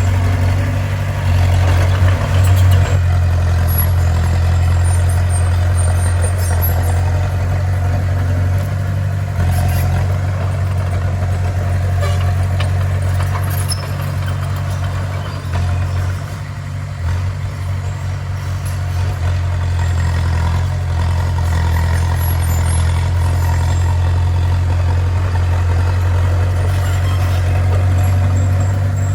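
Bulldozer's heavy diesel engine running steadily with a deep, constant hum, easing off slightly a little past the middle.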